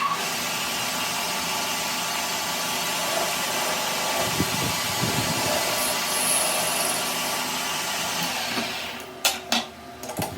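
Power tool running steadily on metal for about eight and a half seconds, then winding down, followed by a couple of sharp knocks.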